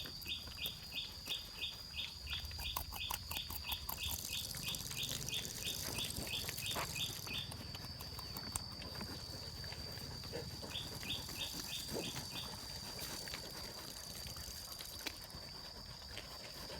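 Outdoor animal chirps: a rapid, even series of short chirps, about four a second, that stops partway through and returns briefly, over a steady high-pitched trill, with scattered faint clicks.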